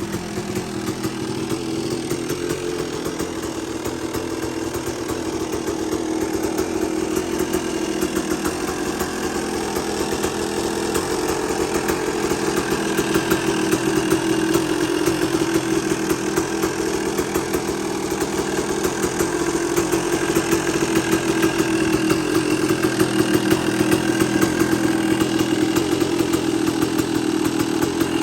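1992 Yamaha YZ250's two-stroke single-cylinder engine idling steadily while it warms up after a cold start, growing somewhat louder in the second half.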